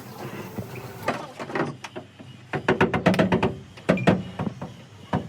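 Irregular runs of sharp knocks and clicks, in quick clusters from about a second in, like tools or parts being handled and struck.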